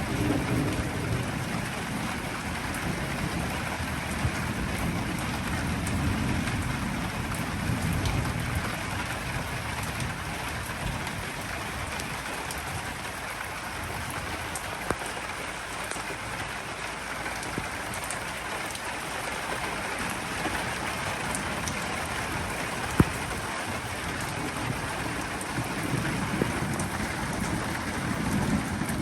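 Steady rain falling during a thunderstorm. Low rolling thunder rumbles through the first several seconds and again near the end, with one sharp tap about two-thirds of the way through.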